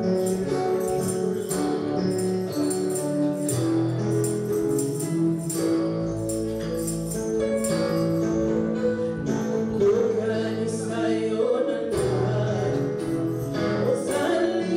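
Congolese gospel music: voices singing held notes over a steady, evenly struck percussion beat.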